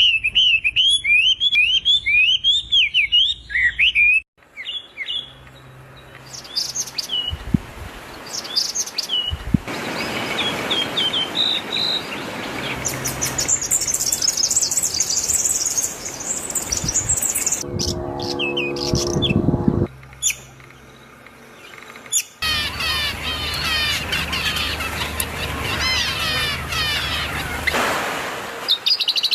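Small birds chirping and trilling in quick high-pitched phrases, in several short recordings joined together, each with its own calls and background. Near the middle there is about two seconds of a lower, harsher pitched call.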